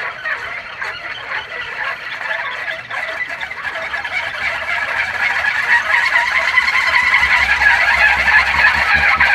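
Kolecer, a one-and-a-half-metre wind-driven propeller on a pole, spinning with a steady whirring drone that grows louder over the second half.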